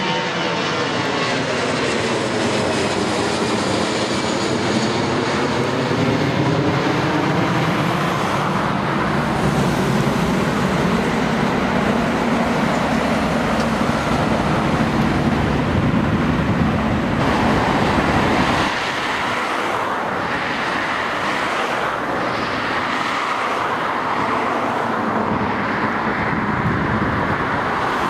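Four-engine Airbus A340 jet airliner passing close by, its engines a loud steady rush with a phasing sweep that falls and then rises as it goes past. The engine noise changes abruptly about two-thirds of the way through.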